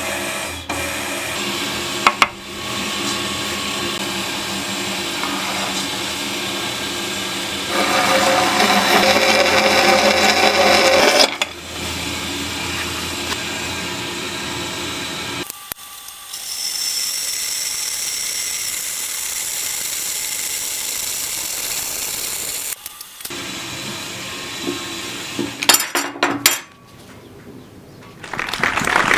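Homemade vertical metal-cutting bandsaw running, its bi-metal blade cutting metal, in several separate stretches: the sound changes abruptly a few times and grows louder for a few seconds in the middle.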